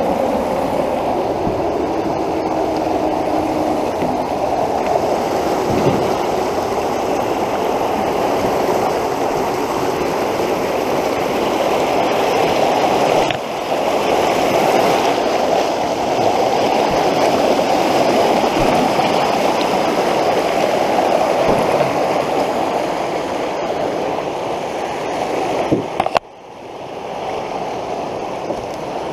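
Fast, flood-swollen creek water rushing and gurgling steadily over a riffle. Near the end a sharp knock cuts in, after which the rushing is quieter.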